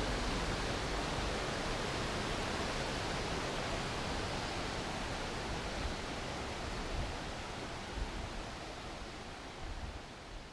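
Steady rushing noise of a waterfall, fading gradually and dropping lower toward the end.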